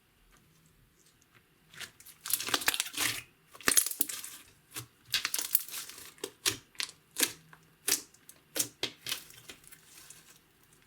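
Clear slime mixed with makeup and glitter being squished and worked by hand, a run of crackling, popping squishes starting about two seconds in and coming every half second or so.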